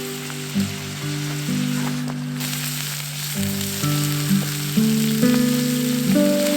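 Food sizzling in a pan, a steady crackling hiss that briefly drops out about two seconds in, under background music of held, slowly changing notes.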